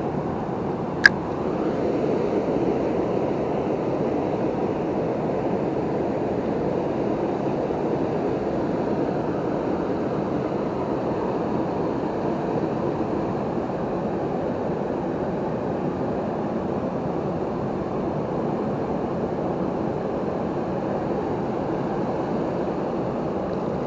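Steady rushing of a river waterfall, with a single sharp click about a second in.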